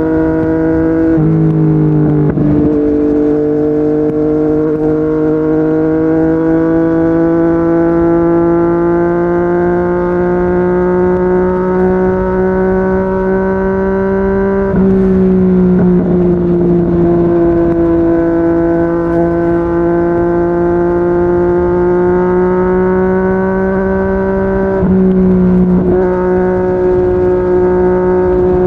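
Yamaha MT-09's three-cylinder engine through a Yoshimura R55 slip-on exhaust, running at speed. Its note climbs slowly as the bike gathers pace, then drops abruptly at gear changes about 15 and 25 seconds in, with a couple of quick shifts near the start.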